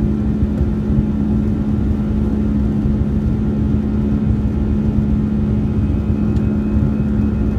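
Jet airliner engine noise during a takeoff: a steady, even drone with a strong constant hum under a low rumble, a faint high whine joining near the end.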